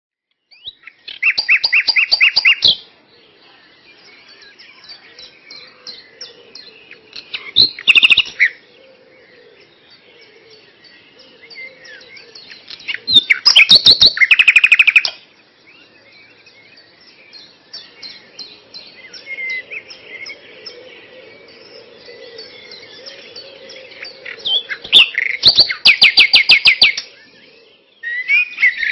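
Birdsong: a constant soft twittering of small high chirps, broken four times by loud bursts of rapid trilled notes.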